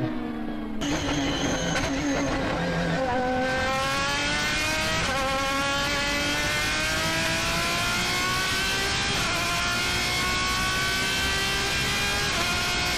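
Lamborghini Essenza SCV12's naturally aspirated V12 accelerating hard, its pitch climbing steadily with a gear change about five seconds in.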